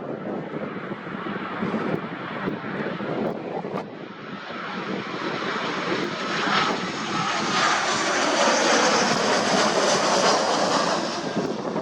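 Jet airliner's engines, a Boeing 737-800 with CFM56-7B engines, passing on approach to land: the noise builds to a peak late on, with a whine that slides down in pitch as it goes by. Wind rumbles on the microphone in the first seconds.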